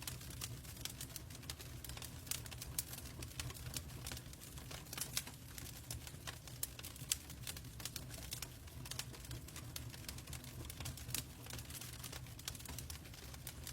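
Wood logs burning in a fireplace, crackling with many small irregular pops over a low steady rumble.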